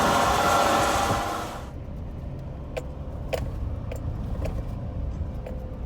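Meyer 8124 forage box's unloading apron and beaters running loudly, then shutting off about a second and a half in as the load finishes unloading. The truck's engine keeps running low afterwards, with a few light clicks.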